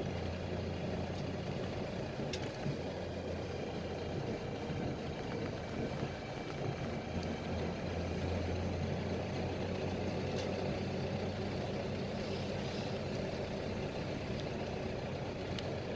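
PAZ-320405-04 "Vector Next" bus engine running steadily, heard from inside the bus as a low hum, with a few light clicks and rattles.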